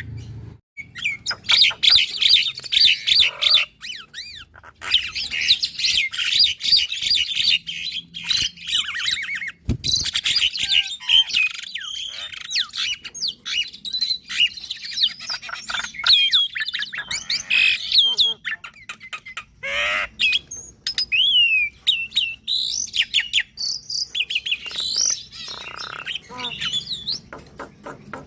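A Javan myna and a black-winged starling singing together: a dense, continuous run of rapid chattering trills, whistled notes and squawks. There is a single sharp knock about ten seconds in.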